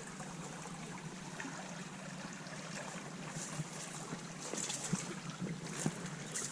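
Storm floodwater rushing steadily in a strong current, a continuous watery rush with faint crackles on top.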